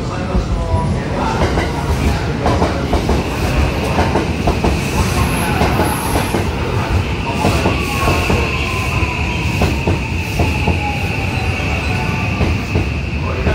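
Osaka Loop Line 323-series electric train pulling into the platform: wheels clatter over the rail joints with a low rumble. A steady high whine sets in a few seconds in, and a lower tone falls slowly in pitch as the train slows to a stop.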